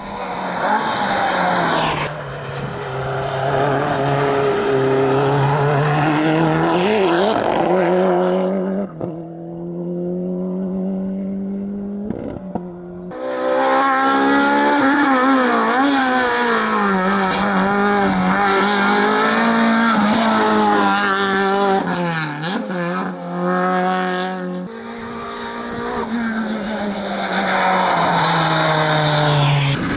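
Rally cars driven hard on a rallysprint stage, in several separate runs: engines revving up and down through the gears, with tyre squeal. There is a quieter, thinner stretch in the middle.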